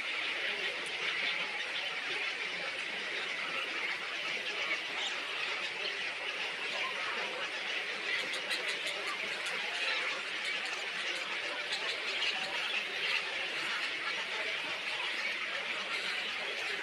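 Dense, continuous chatter and squeaking of many small birds calling at once, with a few sharp clicks about halfway through.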